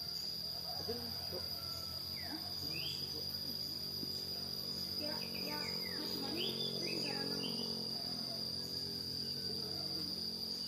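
Insects, crickets or similar, trilling steadily on one high note, with a few short rising chirps, like birds, about two seconds and five to seven seconds in.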